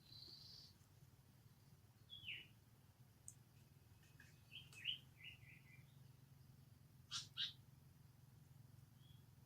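Scattered high-pitched animal chirps and squeaks: a short held note at the start, a falling call about two seconds in, a quick run of short notes near the middle and two sharp calls later, over a steady low hum.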